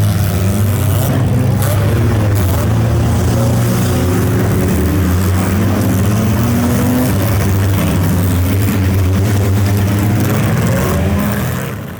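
Car engines running loud, with several engine notes rising and falling as they rev, over a rushing noise. The sound fades out near the end.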